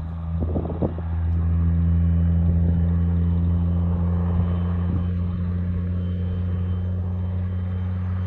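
Heavy truck engine running with a steady low drone, with a few short knocks in the first second.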